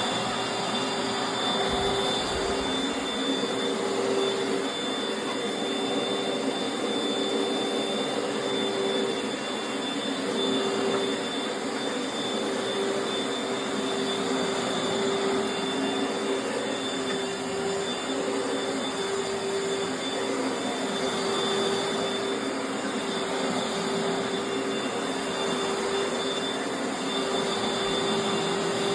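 A late-1980s Panasonic Jet Flow upright vacuum cleaner running steadily: a constant mid-pitched motor hum with a faint high whine over a rush of air.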